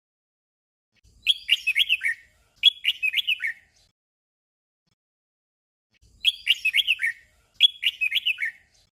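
Red-whiskered bulbul singing its short 'double' song: two quick warbled phrases of about a second each, back to back, then a pause of a couple of seconds and the same pair of phrases again.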